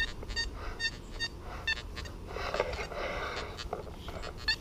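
XP Deus metal detector sounding its target tone as the coil is swept back and forth over a buried target: short, high beeps, about two a second, fading in the middle and returning near the end.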